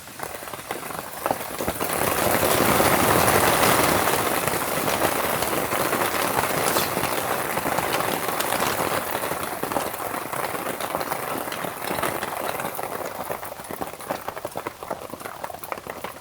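Heavy rain pattering in a dense crackle of drops. It swells up about two seconds in and then slowly eases off.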